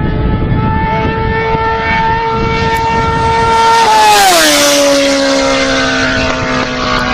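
Sport motorcycle running at high revs, a steady high-pitched exhaust note that grows loudest about four seconds in as it passes, then drops sharply in pitch and fades away.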